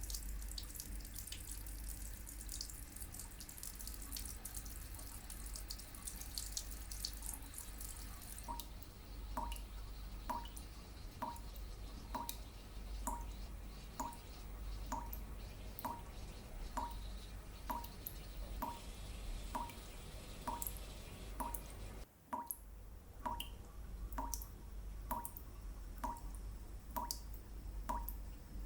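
Water trickling with scattered splashes, then steady dripping: single drops falling in an even rhythm, about three every two seconds, each a short plink.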